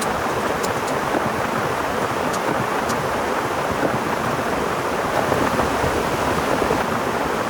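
Heavy rain falling in a steady, even rush, with a few sharp drop ticks now and then.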